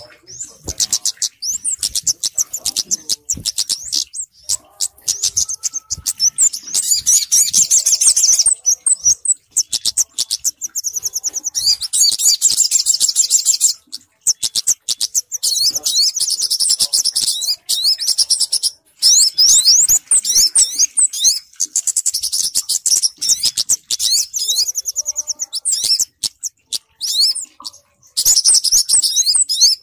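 Bird-lure recording of small songbirds' calls, kemade and sogok ontong (a sunbird), mixed together: rapid, high-pitched chirps and trills in loud bursts of a few seconds, broken by short pauses.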